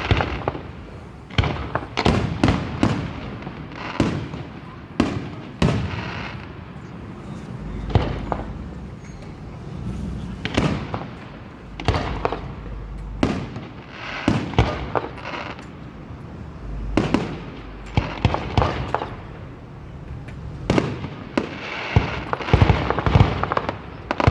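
Aerial fireworks going off one after another, sharp reports about every second, with a dense run of rapid crackling near the end.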